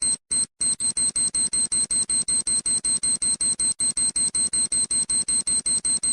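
Electronic alarm beeper sounding a rapid, even run of short high-pitched beeps, about six or seven a second, all on one pitch; it begins with a couple of stuttering beeps, then settles into a steady run.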